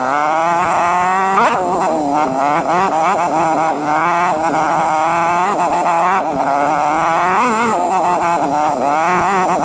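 Enduro dirt-bike engine running under constantly changing throttle, its pitch rising and falling every second or so as it rides through snow.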